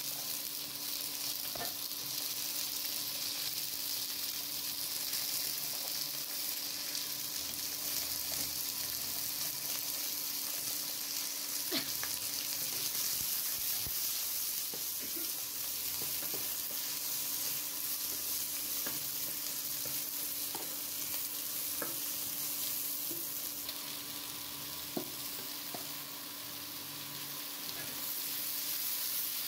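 Chopped vegetables sizzling in oil in a nonstick wok, stirred with a wooden spatula that scrapes and knocks against the pan now and then.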